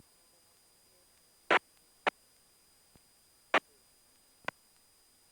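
Four short, sharp clicks in two pairs over the aircraft's radio and intercom feed, like a transmitter being keyed and released with nothing said; a faint steady high electrical whine sits under them.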